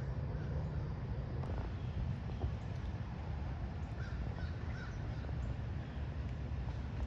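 Birds calling faintly outdoors, with a few short calls near the middle, over a steady low rumble.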